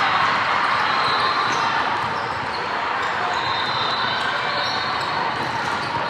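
Basketball game in a gym: a steady din of court and crowd noise with a ball bouncing and brief high squeaks.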